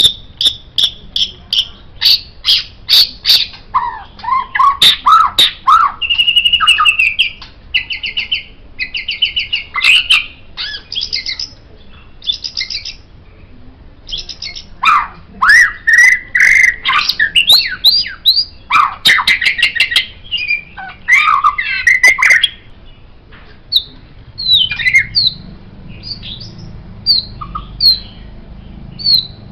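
White-rumped shama (murai batu) singing a varied, loud song of clear whistles, gliding notes, rapid trills and sharp clicks. In the last few seconds it drops to short high calls about once a second.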